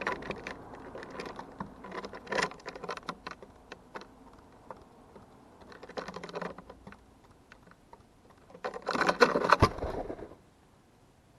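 Rapid tapping and clicking in several bursts, loudest about nine seconds in: a bird pecking and scrabbling at a feeder close to the microphone.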